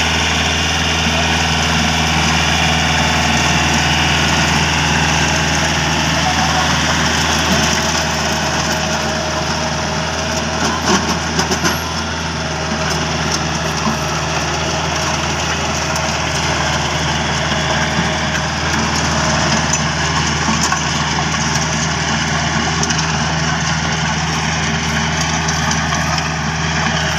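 Yanmar tractor's diesel engine running steadily under a fairly even load, driving a rice-paddy levee-making implement.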